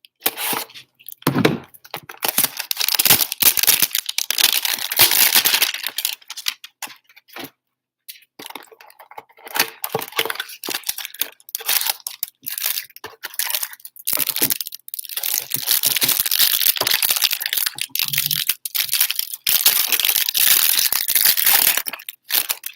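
Plastic wrapping on a box of trading cards being torn and crinkled open, in long rustling stretches broken by short pauses and crackles.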